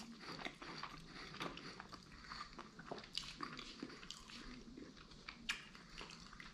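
Faint, close-up chewing of a sushi roll, which the eater takes for a shrimp tempura roll: scattered small wet clicks and light crunches, with one sharper click a little after five seconds in.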